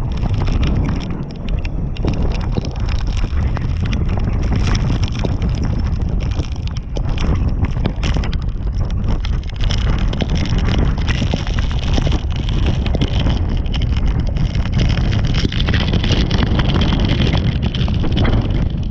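Strong storm wind buffeting the microphone, a loud, rumbling rush with many small irregular crackles throughout.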